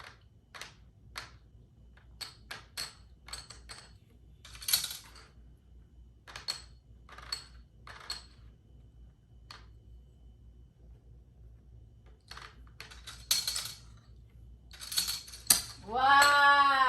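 Plastic Connect 4 discs being dropped into the upright grid: a series of short, sharp clicks and clatters at irregular intervals. Near the end a voice exclaims "wow".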